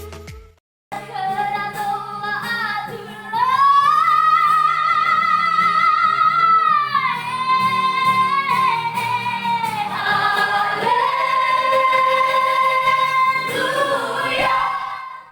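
A high female solo voice singing long held notes, with soft, steady lower parts beneath. It comes in after a moment of silence about a second in and dies away near the end.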